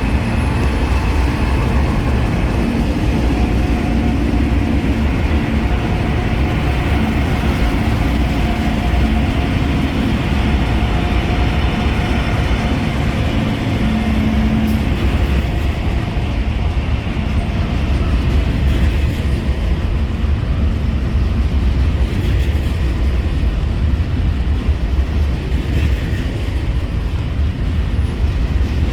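Freight train cars rolling past at about 50 miles per hour: a steady, loud rumble of wheels on rail, with faint whining tones over it.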